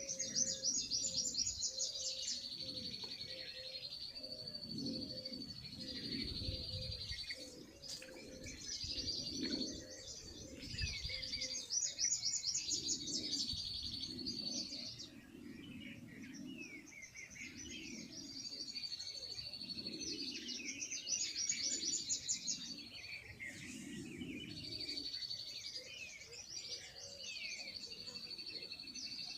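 Small birds singing: fast trilled phrases and high steady notes repeated over and over, with lower calls underneath.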